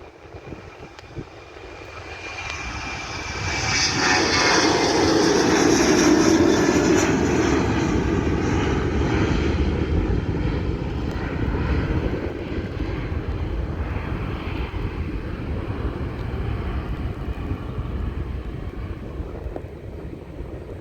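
Jet airliner's engines passing close by: a rising roar with a high whine that drops in pitch as the aircraft goes past, then slowly fading.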